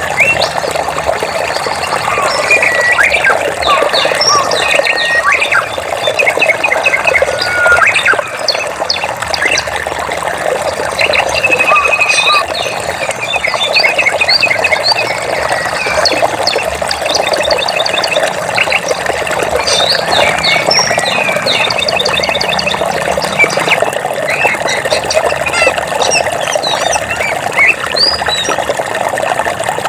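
Running water with many birds chirping and trilling over it, the calls overlapping throughout.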